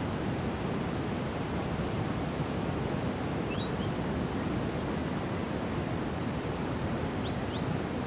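Steady rushing outdoor noise with faint, high songbird chirps and short twittering phrases heard several times over it.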